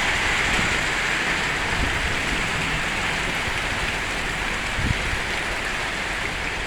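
Steady heavy rain coming down, an even hiss, with one soft thump about five seconds in.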